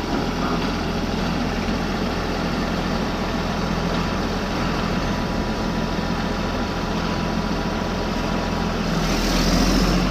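Heavy tractor engine running steadily at low revs, growing a little louder near the end.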